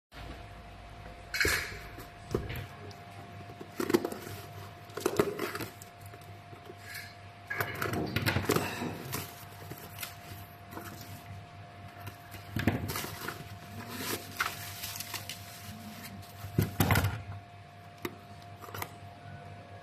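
Irregular clicks, knocks and short rattles of small hard objects being handled on a hard surface, with a faint steady hum underneath.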